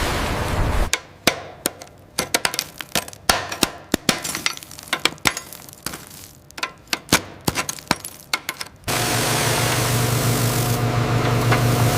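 Irregular sharp metallic clicks, clinks and light knocks, like hand tools working on rusted metal, for about eight seconds. Near the end a steady hum with a hiss starts up.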